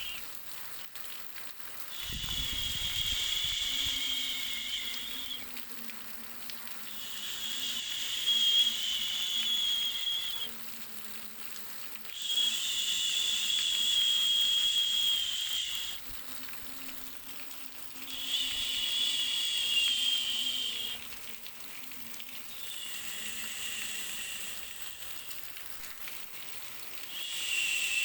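Looping white-noise sleep sound for babies: a steady high hiss that swells and fades about every five seconds. Each swell carries a thin whistling tone.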